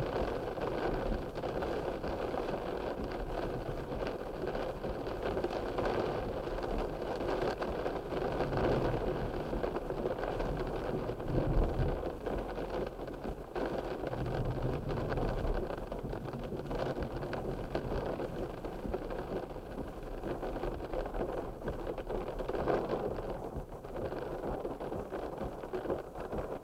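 Steady noise of rain, with a brief louder low rumble about eleven seconds in.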